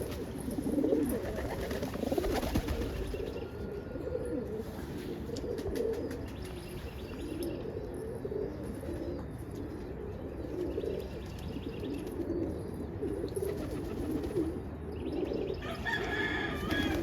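Several roller pigeons cooing continuously in overlapping, wavering calls, with a few sharp wing-flap strokes in the first seconds and a brief higher chirping near the end.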